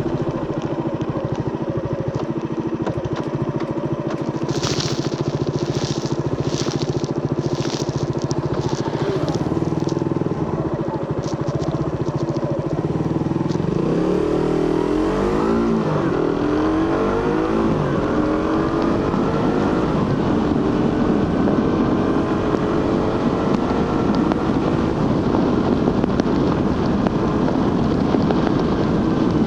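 Suzuki GSX-R150's single-cylinder engine through its stock exhaust, running at steady speed at first, with a few short crackles a few seconds in. About halfway the pitch dips and climbs through gear changes, then rises steadily as the bike accelerates.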